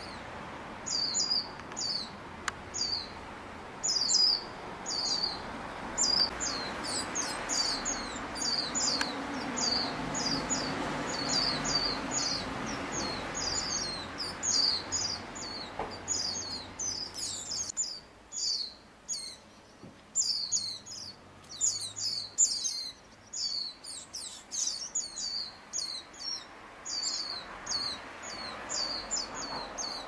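Rapid, thin, high chirps of a young white-eye (pleci), two or three a second, keeping up without a break. Under them runs a low background hum that drops away a little past halfway.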